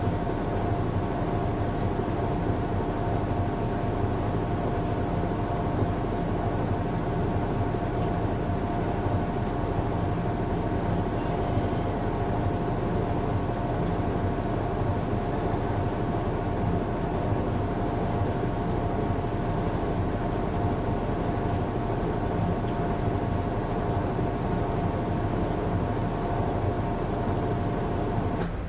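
Washing machine running a strong cycle: a steady motor hum with a whirring, noisy wash underneath. It drops away briefly at the very end.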